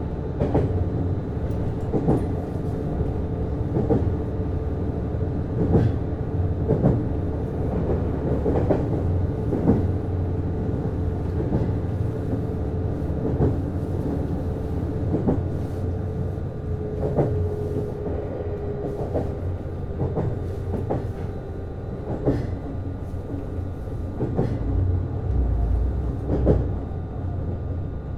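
Interior running sound of a JR East Series HB-E210 hybrid train: a steady low rumble with wheels knocking over rail joints and points at irregular intervals. A faint steady whine in the first part fades out about two-thirds of the way through.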